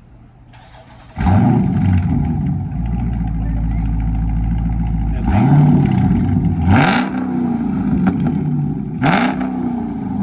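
Dodge Charger Scat Pack's 392 (6.4-litre) HEMI V8, straight-piped with the mid muffler and resonators removed, starting about a second in with a loud flare. It settles to idle, then is revved several times.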